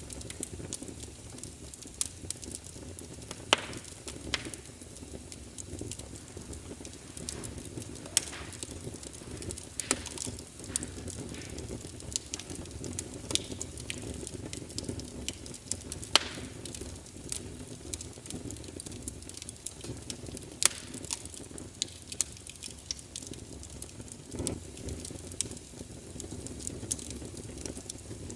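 Fire burning in a fireplace: a steady low rumble of flames with irregular crackles and sharp pops, a few louder pops every several seconds.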